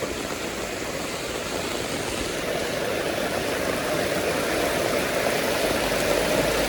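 Heavy rain pouring steadily onto an umbrella, growing a little louder, with a low wavering hum joining underneath from about halfway in.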